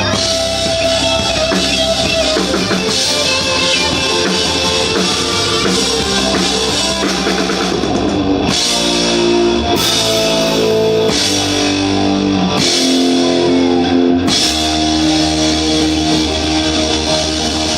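Live rock band playing, with a drum kit and electric guitar.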